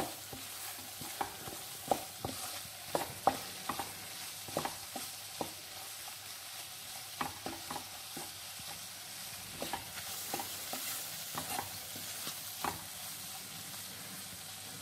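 Butter, flour and chopped capsicum sizzling softly in a pan on a low flame while a wooden spatula stirs and scrapes, knocking against the pan at irregular moments: the flour being fried in butter for a white-sauce roux without letting it brown.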